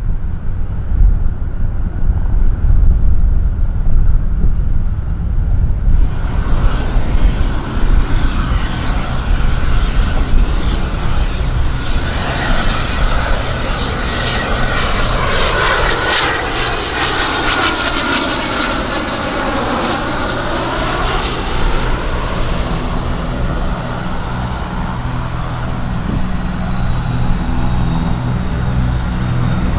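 An airplane flying past. Its engine noise builds, peaks about halfway through with a sweeping whoosh, and then a high engine whine falls steadily in pitch as it moves away, over a heavy low rumble.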